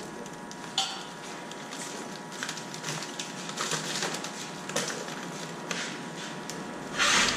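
Baled PET plastic bottles crackling and crunching as the wired bale is handled, with scattered sharp clicks and a louder crunch near the end.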